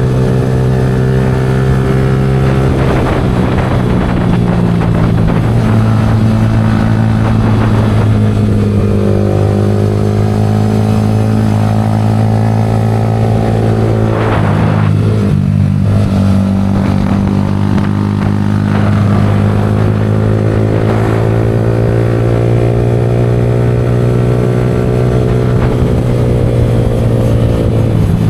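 Yamaha R15 V4 motorcycle's single-cylinder engine running through an aftermarket Leo Vince exhaust while riding, its pitch climbing and falling away as it accelerates and eases off. There are brief breaks about three and fourteen seconds in, like gear changes.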